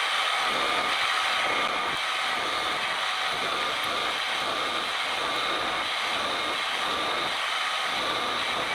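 Milling machine running with its spindle turning a drill through the metal holder: a steady whine with several held tones over a constant hiss.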